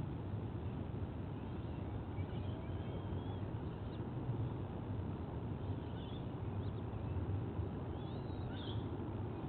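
Faint, short bird chirps and squeaks, a few scattered through, over a steady low rumble of background noise.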